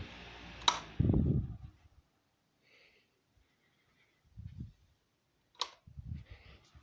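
Grunhelm GH-1621 floor fan, heard as short low rumbles of moving air with gaps between them, and two sharp clicks, one near the start and one near the end.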